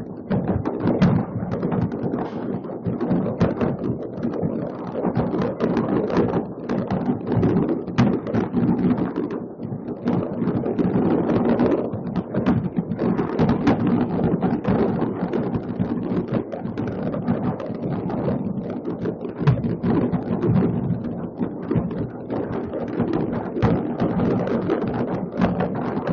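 Many fireworks exploding at once over the city, countless overlapping bangs and crackles merging into a steady rumble with no pause.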